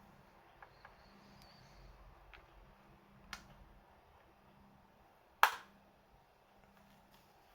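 A few faint clicks, a sharper tick a bit past three seconds in and one sharp, loud click about five and a half seconds in: small hard parts or tools being handled during laptop disassembly.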